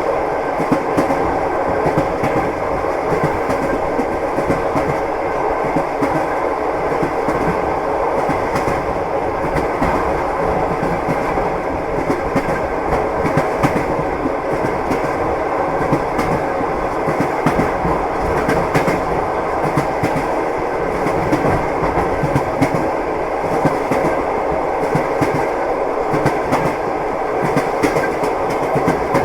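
Railway train wheels rolling and clacking over rail joints, a steady rumble with many short irregular clicks.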